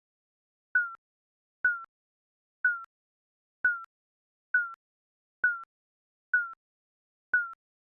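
Digital countdown timer beeping once a second: short, slightly falling electronic beeps, eight in a row, evenly spaced, each with a click at its start.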